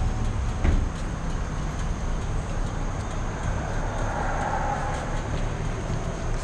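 1992 Harley-Davidson Fat Boy's V-twin engine running steadily on the move, heard from a chest-mounted camera, with a short thump under a second in.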